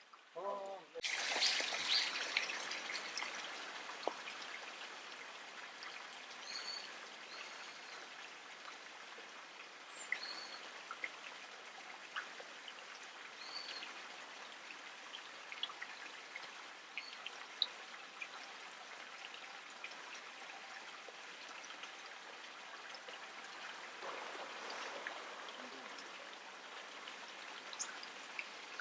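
Water trickling steadily, louder in the first few seconds, with short high bird calls every few seconds over it.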